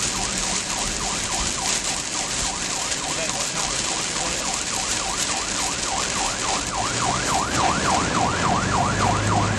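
Emergency siren on a fast yelp, wailing up and down about three to four times a second, faint at first and louder from about six seconds in, over a steady loud hiss of road and storm noise.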